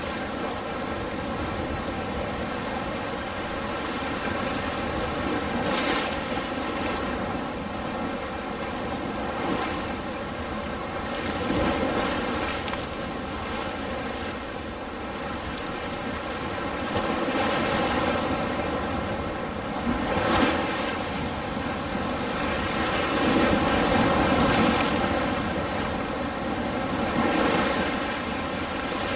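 Ocean surf: waves breaking and washing in a continuous rush that swells and eases every few seconds.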